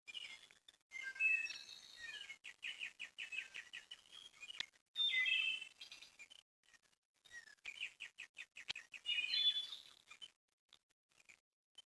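Small songbirds chirping and singing, with trills of rapidly repeated notes, loudest near the middle and again about three-quarters of the way through. The sound cuts out to silence in several brief gaps.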